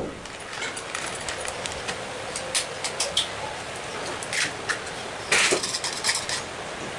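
Kitchen utensils clinking and tapping against cookware, a scattered series of sharp clicks with a busier cluster about five seconds in, over a steady hiss.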